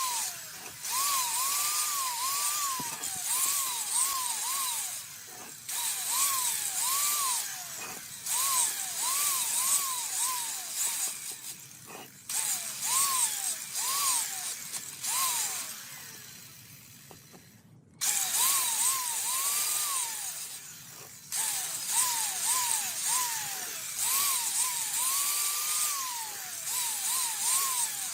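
Handheld power tool working on a metal motor part: a loud hiss with a whine that rises and falls about twice a second as the tool is loaded and eased off. The sound breaks off abruptly several times.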